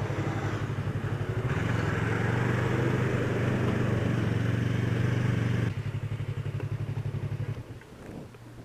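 Yamaha R3 parallel-twin motorcycle engine running on the road. It pulls harder and louder about a second and a half in, eases back a few seconds later, then falls away sharply near the end.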